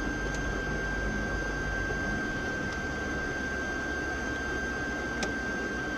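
Car driving, heard from inside the cabin: steady engine and road noise with a low rumble, under a constant thin high-pitched whine.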